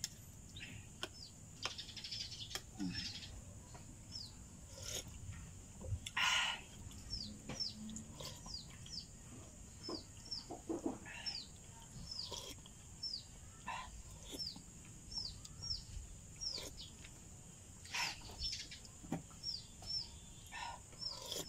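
A bird chirping over and over, short high falling notes about once a second, over the sounds of eating noodle soup: a spoon and fork clicking against a ceramic bowl and short slurps, the loudest about six seconds in.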